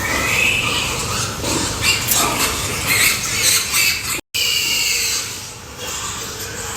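Pigs squealing: several short, high calls over a steady background hiss. The sound drops out for an instant a little after four seconds in.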